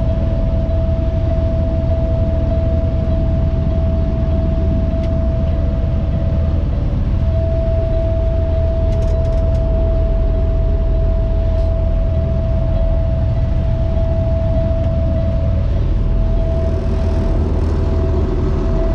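Heavy truck engine running steadily, a deep rumble with a constant high-pitched tone held over it.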